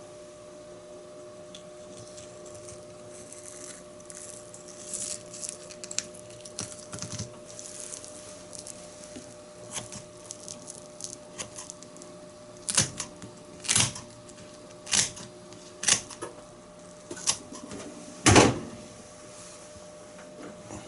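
Knife work on a cutting board while filleting a Spanish mackerel: scattered small clicks and scrapes, then six sharp knocks about one a second near the end.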